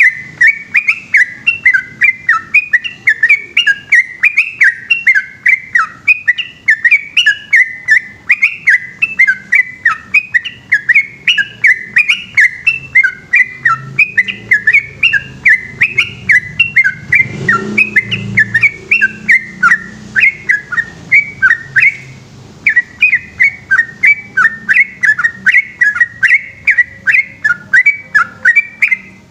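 Yellow-vented bulbul singing a long, rapid run of short whistled notes, several a second, with one brief pause about three-quarters of the way through.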